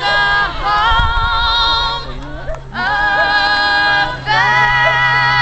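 A woman singing long, held notes with vibrato, in phrases broken by short breaths.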